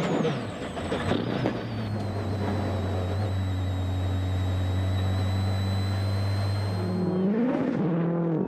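Rally car engine heard from inside the car, held at one steady note for several seconds with a thin high whine over it, then swinging up and down in pitch again near the end as the revs change.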